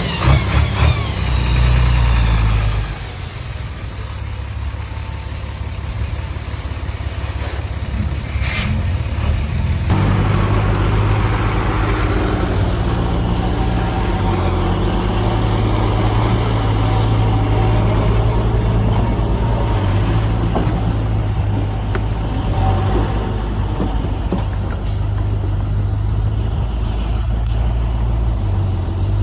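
Heavy diesel engines of earthmoving machinery running, a bulldozer and dump trucks working. The first couple of seconds are louder and rougher. A short click comes at about eight seconds. From about ten seconds in, the engine sound is louder and steady.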